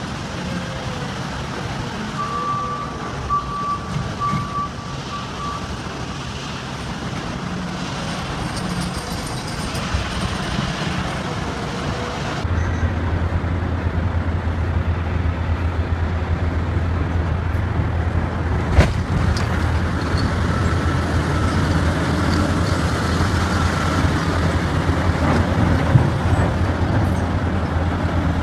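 Heavy diesel machinery running, with a backup alarm beeping repeatedly for a few seconds near the start. About halfway through the sound changes abruptly to a louder, deeper, steady engine drone, with one sharp click a little later.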